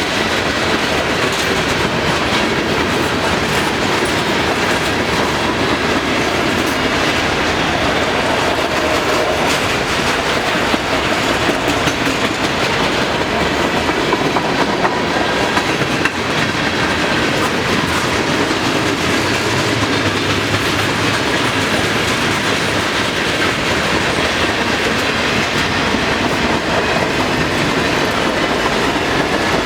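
Freight cars of a long manifest train rolling past, a steady loud rumble of steel wheels on rail with clicking over the joints and a faint high ring from the wheels.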